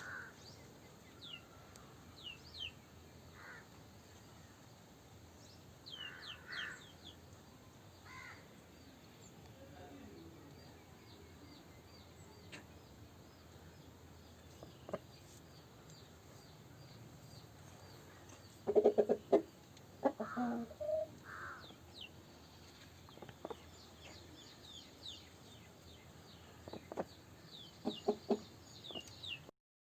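Asil chickens clucking, loudest in a short run of calls about two-thirds of the way through and again near the end. Many short, high chirps go on throughout.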